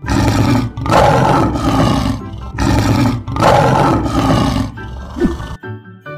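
Lion roaring: two long roars one after the other, over background music.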